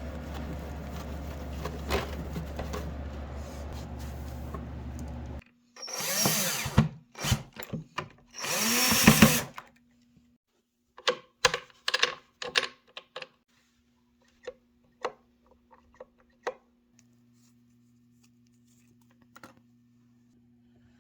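Cordless drill-driver running in two short bursts, its pitch rising and falling, after a steady rushing noise with a low hum that cuts off suddenly. Scattered clicks and knocks follow.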